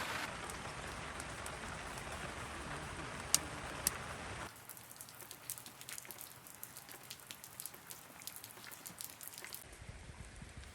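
Steady rain, with two sharp ticks a little after three seconds in. About four and a half seconds in it cuts to a quieter rain, with single drops tapping.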